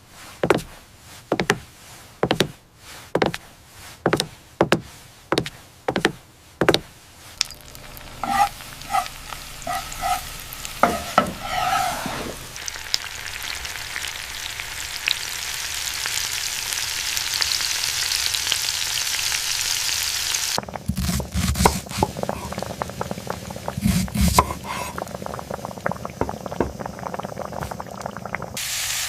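Home cooking sounds: about a dozen evenly spaced knocks, then a few ringing metal clinks, then food sizzling steadily in a hot pan from about twelve seconds in. The sizzle carries on under a stretch of stirring and clattering in the pan.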